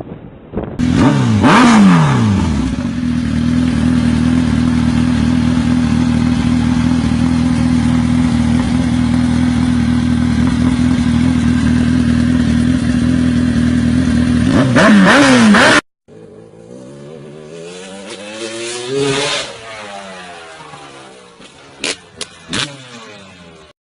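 Motorcycle engine running at steady revs. Its pitch drops in the first couple of seconds and rises again just before it cuts off abruptly. A quieter passage follows that swells and fades, with two sharp clicks near the end.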